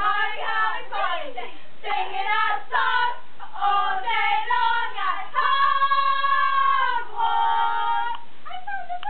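High-pitched voices singing short chanted phrases, with two long held notes in the second half.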